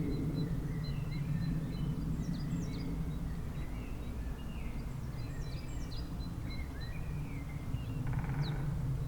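Several songbirds chirping, short quick downward-sweeping notes in two flurries a few seconds apart, over a steady low rumble that is the loudest sound. A short buzzy rattle comes near the end.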